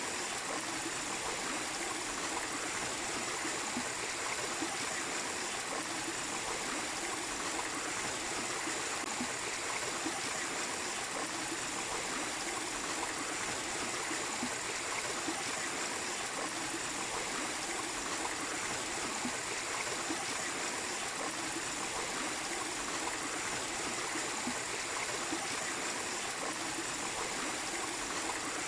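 Small waterfall splashing into a stream, a steady rush of running water with no change.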